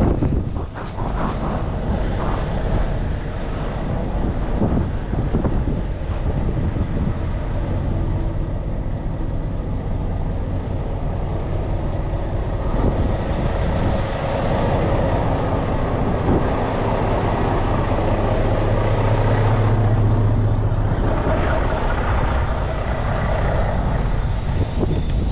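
Heavy truck diesel engine running steadily, rising to a louder, deeper drone under load for a few seconds about three-quarters of the way through, with scattered knocks early on.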